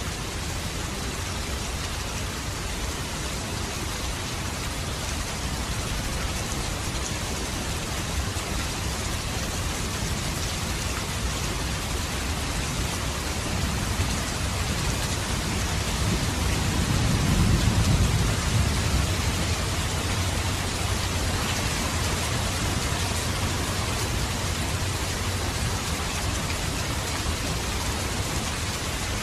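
Steady rain falling, with a low rumble of thunder that swells and fades a little past the middle.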